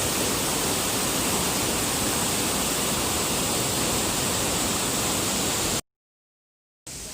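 Steady rush of falling water from a waterfall. It cuts off abruptly to silence a little before the end, then comes back more quietly.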